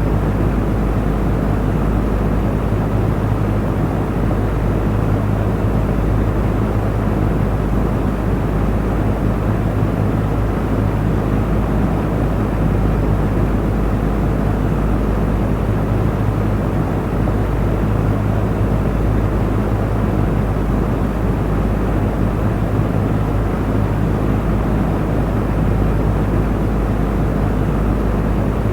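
Electric fan running steadily: an even rush of air from the blades over a low, constant motor hum.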